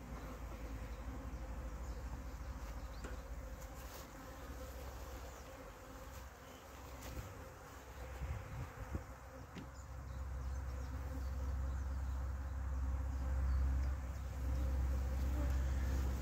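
A swarm of honeybees buzzing steadily in a mass around an open hive, with a held hum. A low rumble swells in the second half.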